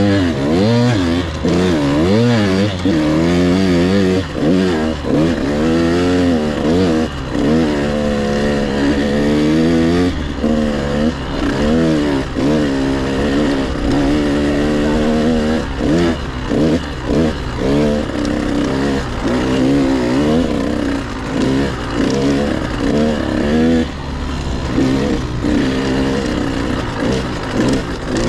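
Husqvarna TC 85 two-stroke dirt bike ridden on a trail, its engine pitch rising and falling over and over as the throttle is opened and rolled off, with short drops between.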